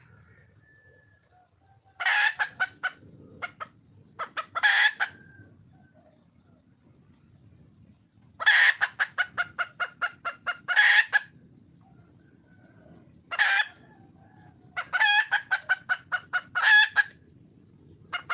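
A red junglefowl hen calling to attract a male: about five bouts of rapid, sharp clucking notes, several a second, with short gaps between them.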